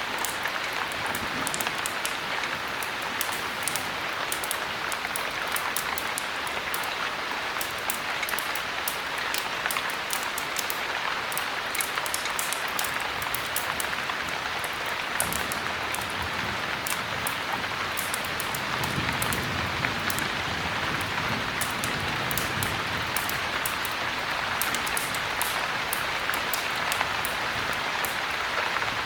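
Steady heavy rain with a scatter of small sharp crackles from a wood fire burning in a fireplace. A soft low rumble swells and fades about halfway through.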